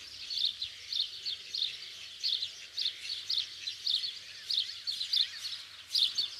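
Bird chirping in a steady, repeated series of short, high chirps, about three a second.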